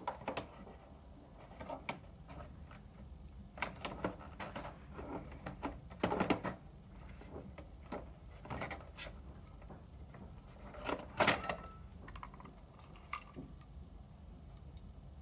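Irregular light clicks and knocks of a projector being handled and taken apart by hand, over a faint steady low hum; the loudest clatters come about six and eleven seconds in.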